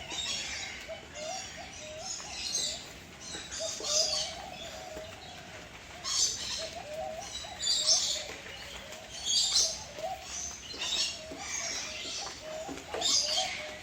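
Several birds calling: repeated high chirps roughly once a second, over a steady layer of lower, wavering calls.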